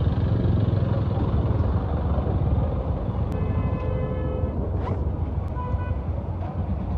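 Steady rumble of road traffic and engines, with a vehicle horn honking for about a second about three seconds in and a short honk near the end.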